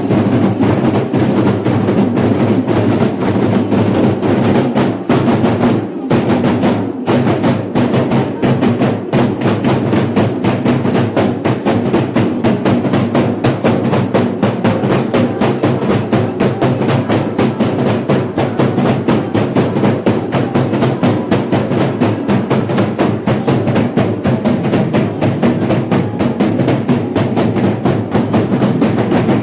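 Kerala temple-festival drumming: an ensemble of chenda drums beaten in fast, dense strokes, with two brief breaks about six and seven seconds in.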